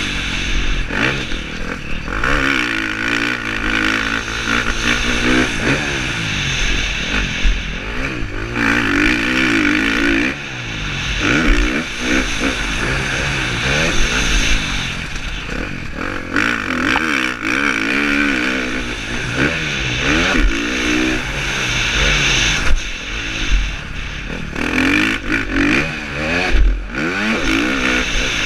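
KTM 350 SX-F single-cylinder four-stroke motocross engine under hard riding, revving up and falling back again and again as the rider accelerates, shifts and rolls off. It is heard close from a helmet-mounted camera.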